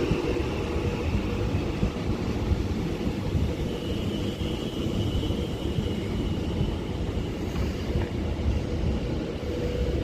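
Avanti West Coast Class 390 Pendolino electric train moving slowly through the station, a steady low rumble of wheels on rail with a faint high whine in the middle.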